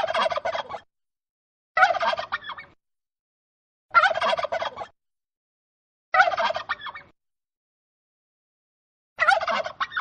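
A bird's call, a fast gobbling rattle about a second long, repeated five times roughly every two seconds with silence between.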